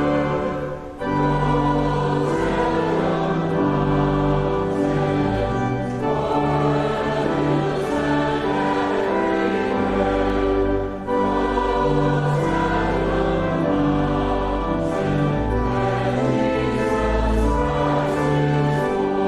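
Congregation singing a hymn with sustained instrumental accompaniment and a deep bass line, pausing briefly between phrases about a second in and again about eleven seconds in.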